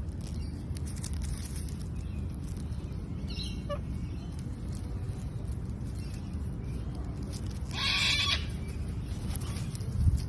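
Parrot calling twice over a steady low rumble: a short call about three seconds in, then a louder, longer squawk around eight seconds in.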